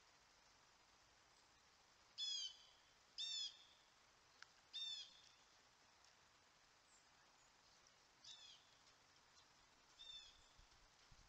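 A bird calling five times with short, slurred notes, spaced a second or more apart, against a quiet outdoor background.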